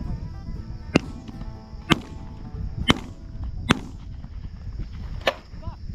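Shotgun shots at passing doves: five sharp reports at uneven intervals of about a second, with a steady high-pitched buzz underneath.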